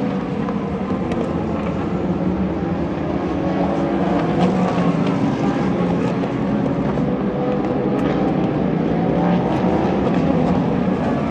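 Race car engines at racing speed on the circuit, several engine notes overlapping in a continuous, steady sound that grows slightly louder about four seconds in.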